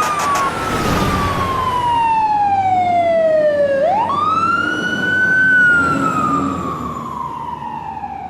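Emergency vehicle siren wailing in long, slow sweeps: the pitch falls, climbs quickly about halfway through, then falls again. A brief rushing sound swells about a second in.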